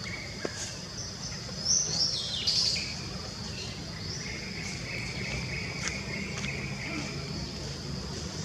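Outdoor forest ambience with a steady high insect drone. About two seconds in come a few loud, high animal calls that step down in pitch, followed later by a softer, wavering high call.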